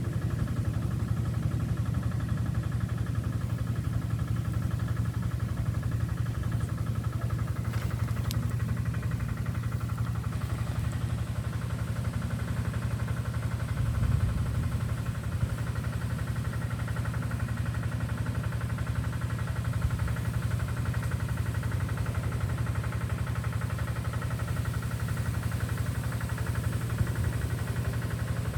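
An engine running steadily at idle, a low even drone with a fast pulse.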